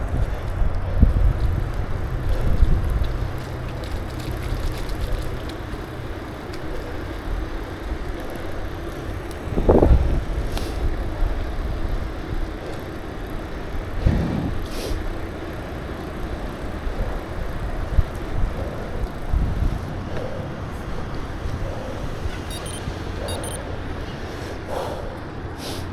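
Road and traffic noise heard while riding a bicycle: a steady rush with a low rumble, heaviest in the first few seconds, a brief louder swell about ten seconds in, and a few sharp knocks.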